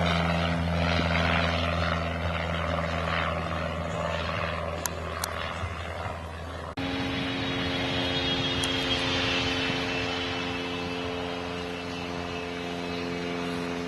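Piston aircraft engines of the B-25 Mitchell bomber "Grumpy" running with a steady propeller drone. About seven seconds in there is an abrupt cut, and the drone carries on at a slightly different pitch.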